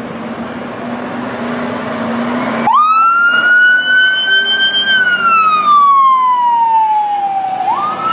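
Fire truck siren wailing. Its pitch jumps up about a third of the way in, climbs slowly, then falls away over a few seconds before swooping up again near the end. Before the siren there is a steady low hum with a hiss.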